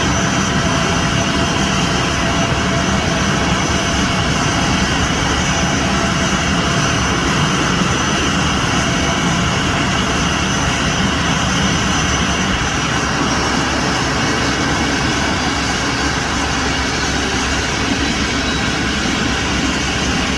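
Airbus A321's turbofan jet engines running steadily: a loud, even rumble with a high steady whine over it.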